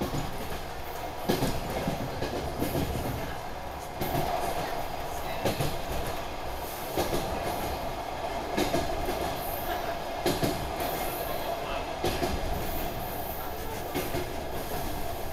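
Inside the passenger saloon of a DR1AMv diesel railcar on the move: a steady running rumble and drone, with the wheels knocking over rail joints in a clickety-clack. The knocks come gradually farther apart as the train slows.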